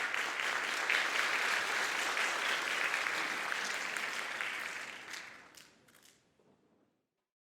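Audience applauding, fading away about five seconds in with a few last claps, then silence.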